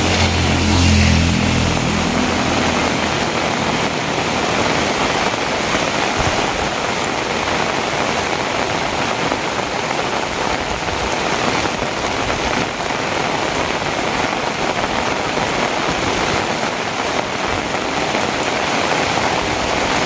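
Heavy rain falling steadily. A vehicle engine's low hum fades out over the first few seconds.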